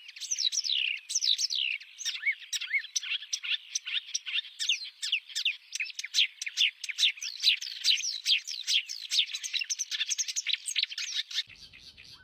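Oriental reed warbler singing a continuous, fast run of sharp notes, most of them sweeping downward. The song stops shortly before the end.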